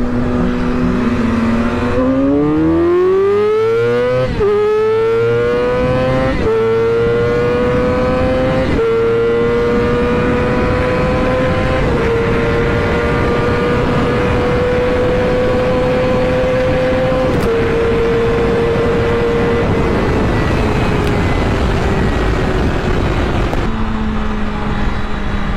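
Motorcycle engine accelerating hard through the gears: the pitch climbs, drops sharply at each of four quick upshifts, holds high at speed, then falls away as the throttle is closed, settling to a low idle near the end. Wind rush runs underneath.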